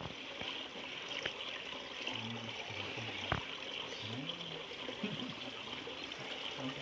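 Water trickling steadily, with faint voices in the background and a single sharp tick about halfway through.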